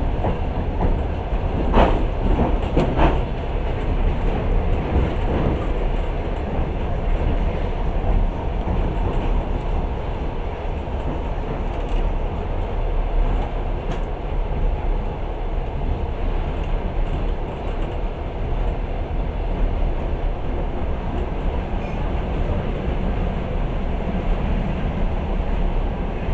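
Passenger train running at speed, heard from inside the carriage: a steady rumble of wheels on the rails, with a few sharp clicks about two to three seconds in.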